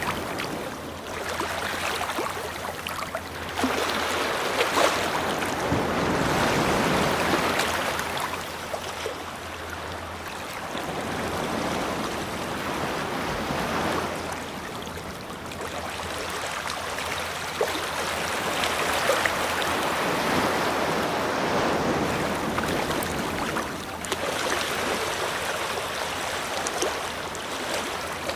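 Ocean waves breaking and washing up a beach, the surf swelling and falling back in slow surges every several seconds.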